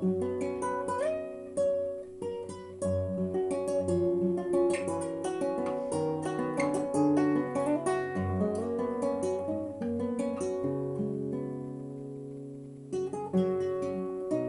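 Solo acoustic guitar playing a slow ballad with picked notes and chords. About ten seconds in a chord is left ringing and slowly fades, and the playing picks up again near the end.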